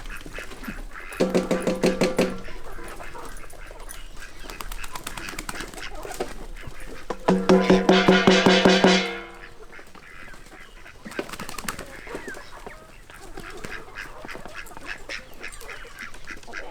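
An animal's call, heard twice: a rasping, pitched call about a second in lasting about a second, and a longer one near seven seconds in lasting nearly two seconds.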